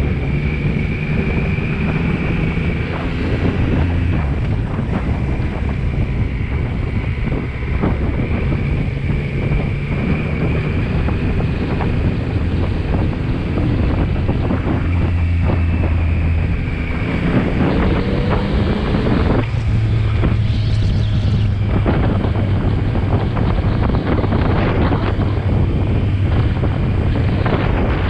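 Motorcycle engine running under way, its pitch rising as it accelerates and dropping at gear changes, with heavy wind noise on the microphone.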